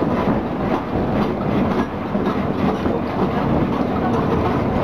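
Botchan Ressha, a diesel-powered replica steam tram, running along the track: steady low rumble from the locomotive and wheels, with irregular rattling of wheels and couplings over the rails, heard from the open coach platform right behind the locomotive.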